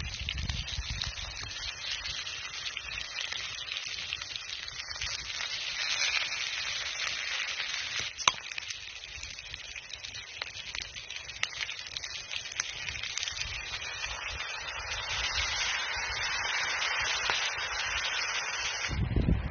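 Campfire crackling and hissing, with many small scattered pops and one louder sharp pop about eight seconds in; the hiss cuts off just before the end.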